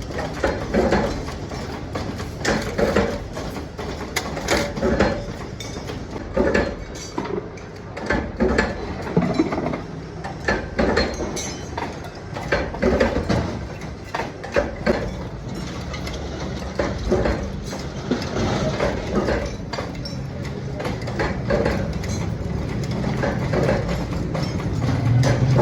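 Machinery running with a steady low hum under irregular mechanical clanks and clicks.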